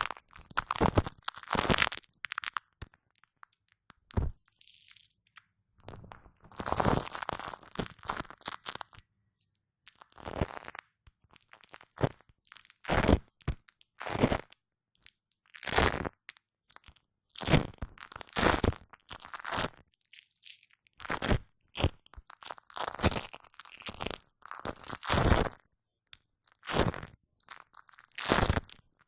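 Shaving foam being squished and worked by hand right on a microphone: a long, irregular series of short, sticky, soft squishes, with brief silences between them.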